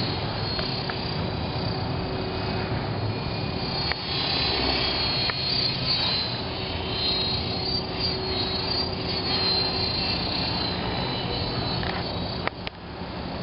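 Align T-Rex 500 Pro electric RC helicopter flying: a steady whir of the rotors with a high whine that wavers up and down in pitch, over low rumbling wind noise.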